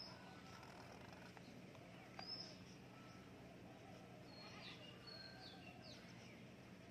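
Near silence with faint, short high-pitched bird chirps: one near the start, one a little past two seconds in, and a small cluster in the second half.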